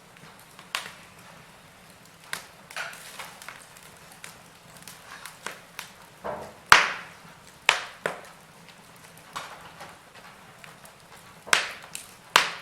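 Fire in a fireplace crackling, with irregular sharp pops of varying strength over a faint steady hiss. The loudest pop comes about seven seconds in, and two more strong ones come close together near the end.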